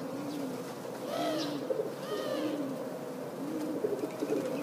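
Birds calling: repeated low, arching calls about once a second, more than one bird overlapping.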